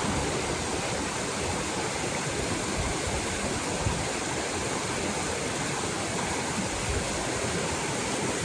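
Rushing water of a river running over rocks, a steady, even rush.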